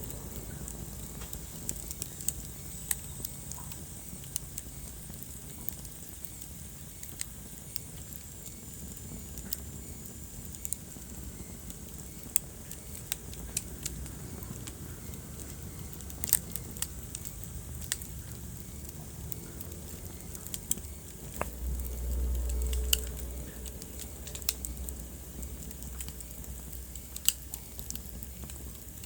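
Wood fire crackling in a fireplace: scattered sharp pops and snaps over a low, steady rumble of flames, with a brief louder low rumble about three quarters of the way through.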